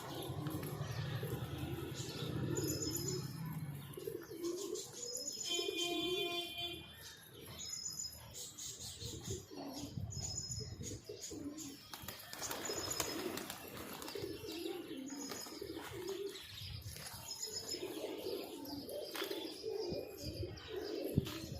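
Domestic flyer pigeons cooing over and over in low throaty phrases, with wings flapping at times.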